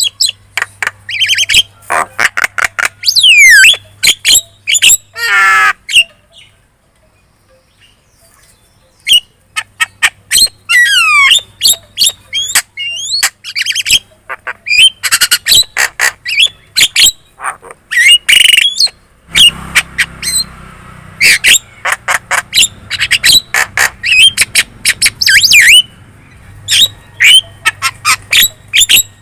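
Javan myna chattering: rapid harsh squawks and clicks mixed with sliding whistles, with a pause of a few seconds about a quarter of the way in.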